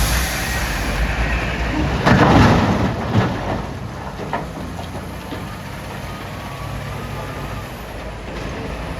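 Heavy diesel machinery running, with a loud crash of large rocks falling into a steel dump-truck bed about two seconds in, followed by a couple of sharper knocks as they settle.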